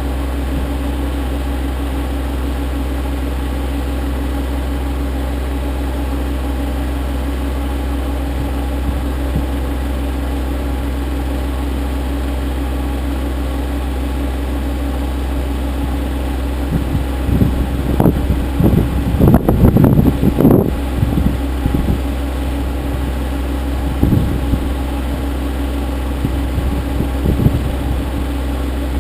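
Kioti CK25 compact tractor's three-cylinder diesel engine running steadily. From about seventeen seconds in, a cluster of loud irregular knocks and rattles comes over the engine, loudest around twenty seconds, with a few single knocks later.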